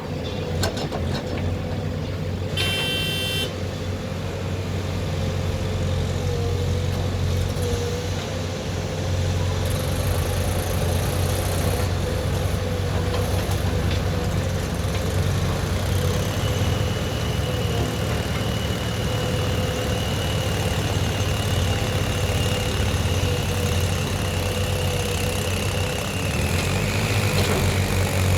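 Heavy diesel engine running steadily under work, with a short vehicle horn toot about three seconds in. A steady high whine joins about halfway through and fades near the end.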